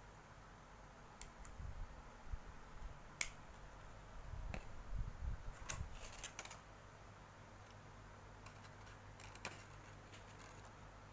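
Small plastic parts being handled: scattered sharp clicks and soft knocks, busiest in the first half, then only a few clicks over faint room noise.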